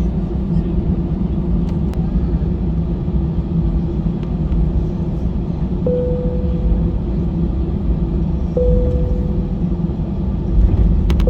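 Cabin noise inside an Airbus A320-214 on the ground before takeoff: a steady low rumble of its CFM56 engines running at low power and the airframe rolling. From about halfway through, a short fading tone sounds three times, a few seconds apart.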